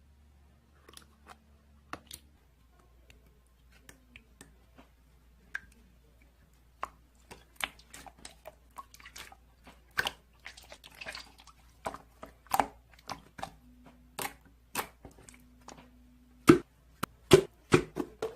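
Marbling slime being squished and pressed by hand, making sticky clicks and small pops. They come faster and louder toward the end.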